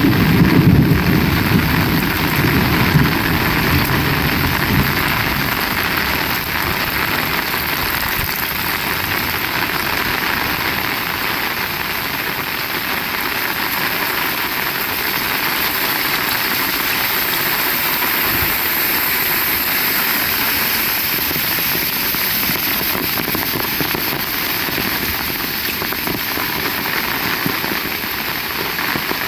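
Heavy rain falling steadily, a dense even hiss. A low rumble at the start fades away over the first few seconds.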